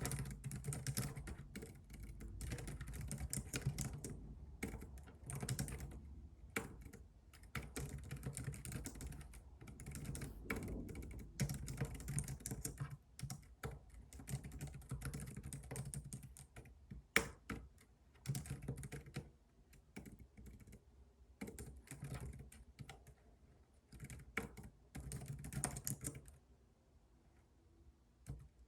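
Typing on a computer keyboard: bursts of rapid keystrokes separated by short pauses, with one louder key strike partway through, the typing stopping near the end.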